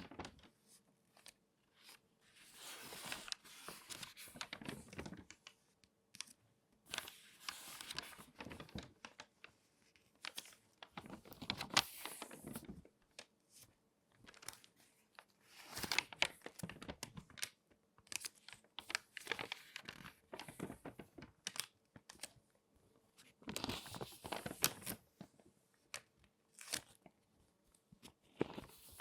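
Glossy magazine pages being folded and handled close up, crinkling and crackling in bursts of a second or two with short pauses between.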